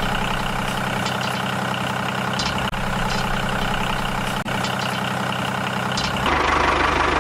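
Tractor-like engine idling steadily with an even pulsing beat, growing a little louder and rougher about six seconds in.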